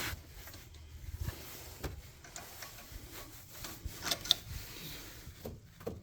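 Irregular rubbing and small clicks of a broken oil dipstick being wiggled in its tube, its seized plastic end stuck inside, with a few sharper clicks about four seconds in.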